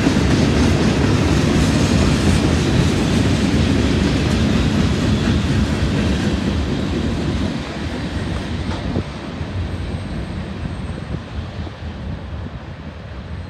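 CSX freight train cars rolling past close by: a steady rumble and clatter of steel wheels on the rails. It fades from about halfway through as the train draws away.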